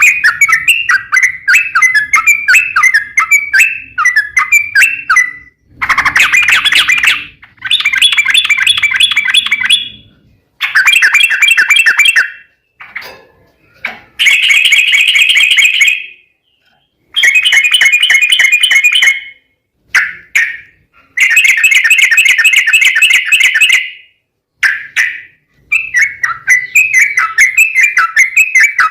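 Yellow-vented bulbul (trucukan) singing its long rapid trill ('ropel panjang'): dense runs of fast repeated notes lasting about two seconds each, separated by short pauses. It opens and closes with choppier bubbling phrases.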